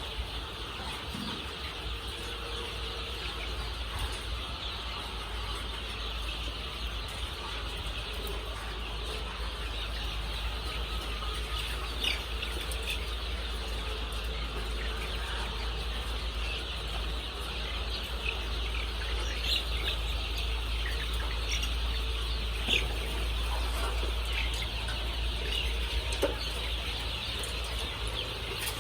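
A large flock of layer chickens calling continuously: a dense chatter of high cheeps and clucks, with a few louder single calls standing out. A steady low hum runs underneath.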